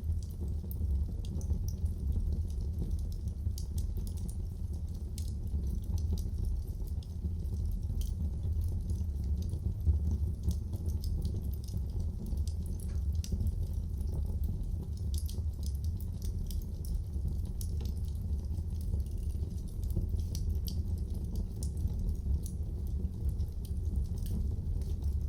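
Wood fire burning in a fireplace: scattered, irregular crackles and pops over a steady low rumble of the flames.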